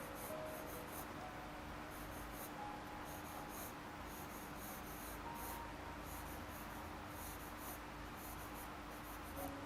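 Graphite pencil scratching on drawing paper in repeated short runs of strokes, faint, as the drawing is worked by hand.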